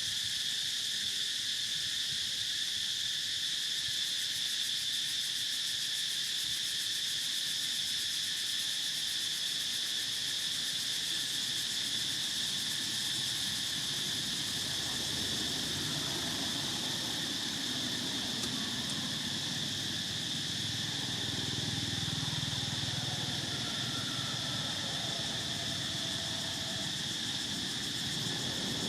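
Insect chorus holding one steady, high, even drone. From about halfway a low rumble builds underneath.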